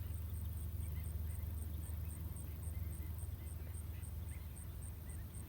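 Faint, scattered calls from a large flock of ducks over a steady low rumble.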